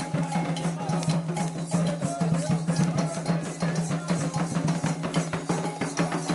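Candomblé ritual drumming: atabaque hand drums beaten in a fast, steady rhythm of dense strokes.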